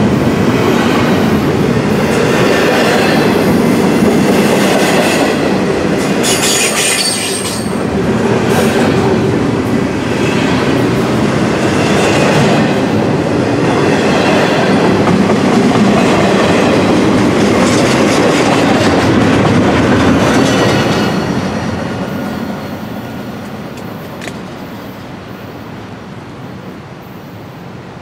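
Double-stack intermodal freight train rolling past at close range: loud, steady wheel-on-rail noise of the well cars, with a brief high-pitched wheel squeal about seven seconds in. The last cars pass about three-quarters of the way through and the sound fades away.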